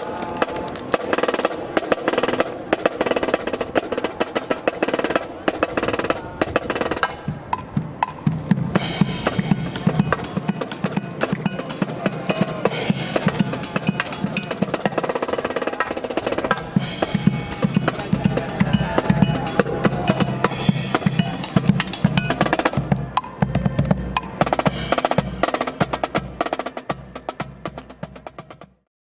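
Marching brass band playing, with snare drums driving a busy rhythm under the brass. The sound cuts off abruptly near the end.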